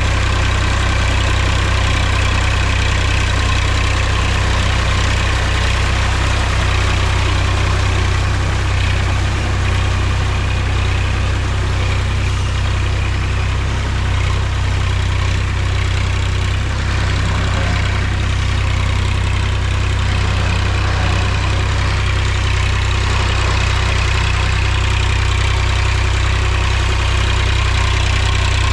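Mahindra tractor's diesel engine running steadily, with a deep, even drone.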